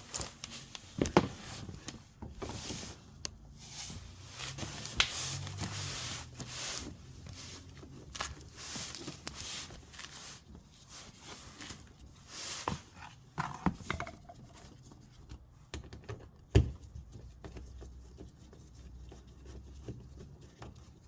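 Irregular clicks, scrapes and rattles of a 10 mm wrench undoing the bolts of the plastic under-engine access covers on a car, with the covers being handled. A few sharp knocks stand out, one about a second in and a louder one about three-quarters of the way through.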